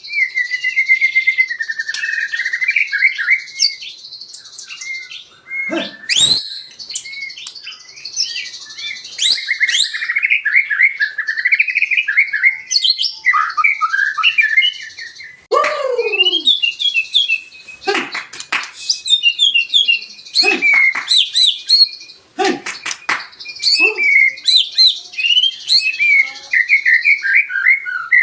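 White-rumped shama (murai batu) singing a long, varied song of whistled phrases and rapid trills, broken by a few sharp clicks.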